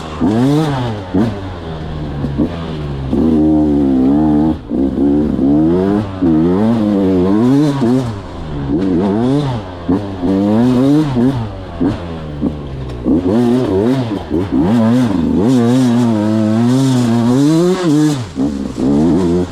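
Beta 200 two-stroke motorcycle's single-cylinder engine revving up and down over and over, its pitch climbing and falling every second or two with short drops between the pulls.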